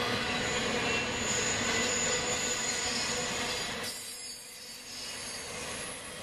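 Double-stack intermodal freight cars rolling past on steel wheels, with a thin, steady high squeal of wheels on the rail. About four seconds in the noise drops sharply, then picks back up a little quieter.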